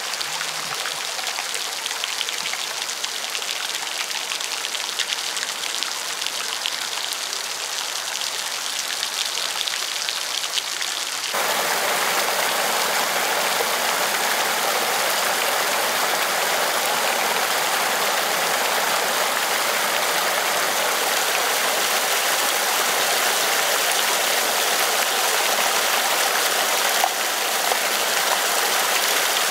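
Torrential rain pouring down, an unbroken hiss of water. About eleven seconds in it jumps abruptly louder and fuller.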